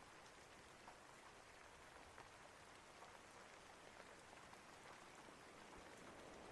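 Faint steady rain: an even hiss with scattered faint drop ticks.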